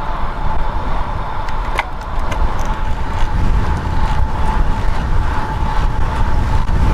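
Wind buffeting the microphone and tyre-on-road noise from a bicycle riding at speed, a steady low rush with a thin steady tone in the background and a few faint ticks.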